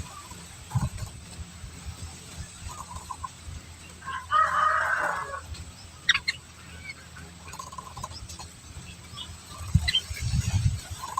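Birds calling: short chirps throughout, with one louder, harsher call lasting about a second some four seconds in. Low thumps follow near the end.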